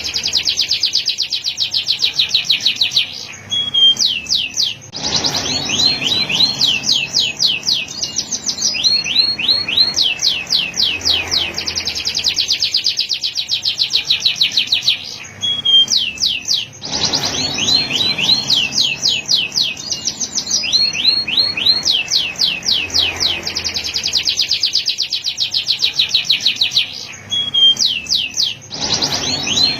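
Male domestic canary singing: long rolling trills of rapidly repeated high notes, broken by short pauses about every twelve seconds.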